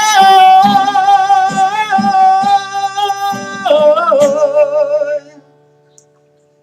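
Male voice holding a long sung note with vibrato over strummed acoustic guitar. About four seconds in, the voice steps down to a lower note, and about five seconds in both die away to near silence.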